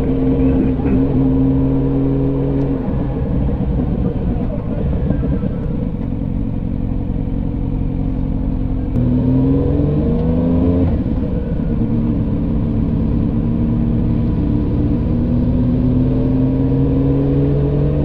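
Road vehicle engine running while under way, over a low rumble of road and wind noise. The engine note eases around three seconds in, then climbs as it speeds up from about nine seconds and settles into a steady run.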